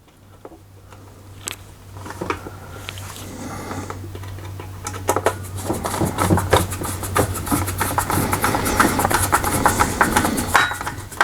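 Screws being driven into a laminator's frame: a rapid run of clicks and rattles that builds from about halfway, over a steady low hum.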